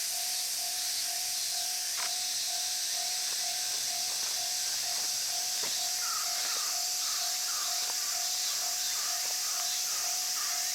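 A dense, steady high hiss of summer insects singing. Through it runs a pulsing note about twice a second, and from about halfway in a string of short chirps joins at a similar pace.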